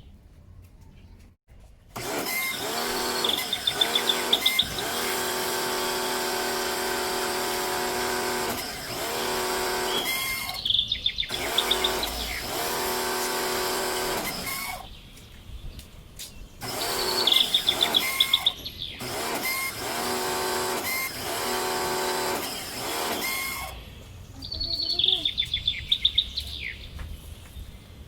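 Electric pressure washer motor and pump running in long bursts, stopping and starting again as the trigger is released and pulled, with a brief high chirping each time it starts.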